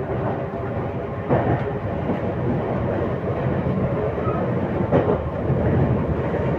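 RER B commuter train running, heard from inside the carriage: a steady rumble of wheels on track, with a couple of knocks over rail joints.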